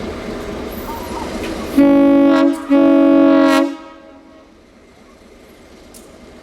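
Locomotive horn sounding two blasts, a short one about two seconds in and a longer one right after, each a chord of several notes; the background is quieter once it stops.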